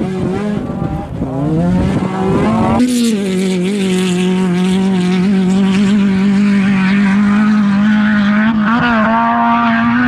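Rally car engine revving hard under load: its pitch climbs for a second or two, shifts abruptly about three seconds in, then holds high and steady, with a quick dip and rise near the end.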